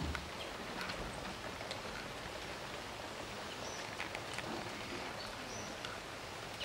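Steady outdoor background noise with faint, scattered short bird chirps, a few brief high notes about halfway through.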